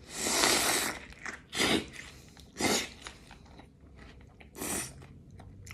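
A crunchy bite into a double cheeseburger, followed by chewing. One long crunch comes at the start, then three shorter crunches spaced about a second apart.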